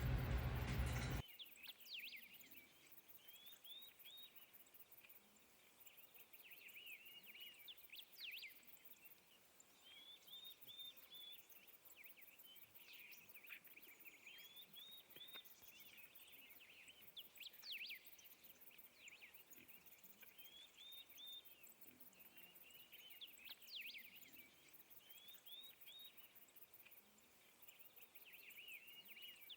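Birds singing faintly, repeated groups of short chirps and quick trills. A louder noise with a low hum stops abruptly about a second in.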